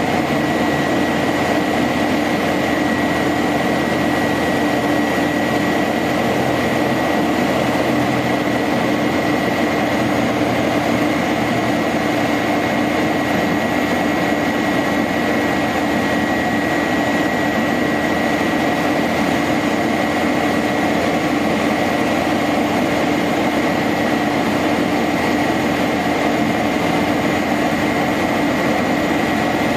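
Engine of a 1999 International 4900 bucket truck running steadily at an even speed, with a thin, steady high-pitched whine over it.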